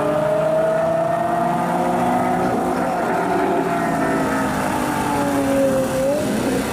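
Straight-piped Lamborghini engine running loudly at steady high revs. Its note climbs slowly, eases off, then picks up again near the end.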